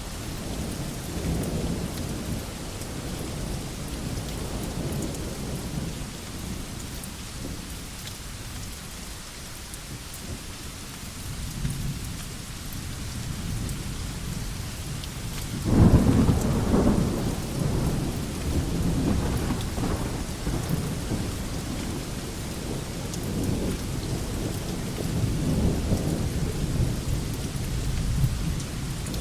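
Steady rain falling on a veranda, with low rumbles that swell and fade. The loudest rumble breaks in suddenly a little past halfway and dies away over several seconds.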